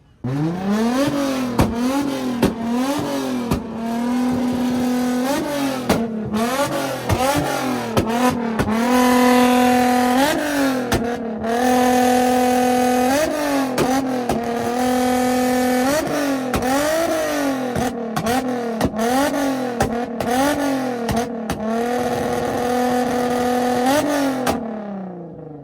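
High-performance car engine revved hard over and over in quick up-and-down blips, several times held steady at high rpm for a second or two, with frequent sharp pops from the exhaust. The engine falls away near the end.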